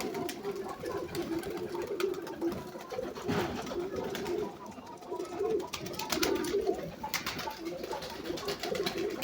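A flock of Uzbek play pigeons cooing together without pause, with bursts of wing flapping about three seconds in and again around six to seven seconds as birds take off.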